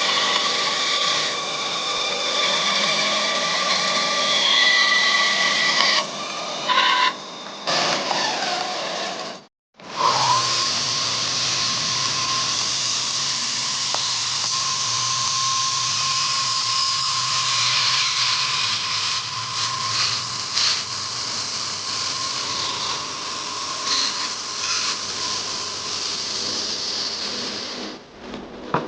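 A small electric power tool running against metal, with a steady whine over loud abrasive noise. This is the kind of tool used to strip rust. It cuts off abruptly for about half a second about nine and a half seconds in, then runs again.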